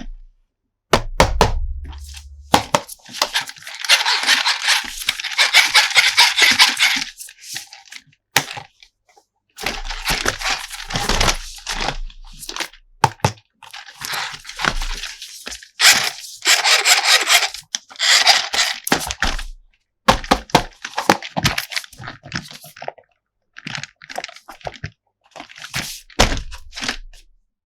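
Toy and its packaging being handled: repeated clicks and knocks, with bursts of crinkling and tearing several times.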